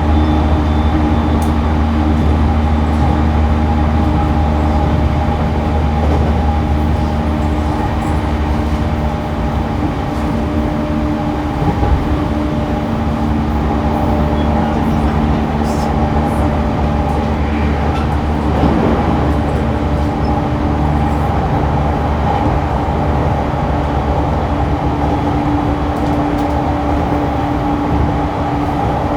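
Interior running sound of a refurbished JR East E231 series 1000 commuter train car: a continuous low rumble of wheels on rail with steady humming tones from the drive that hold one pitch, as the train runs at a steady speed.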